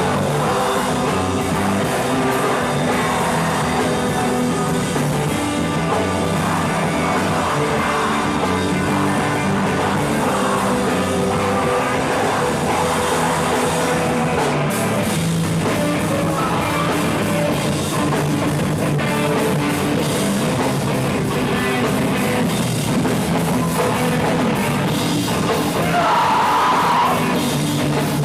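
A live rock band playing loud, with a drum kit driving it and a shouted vocal coming in near the end.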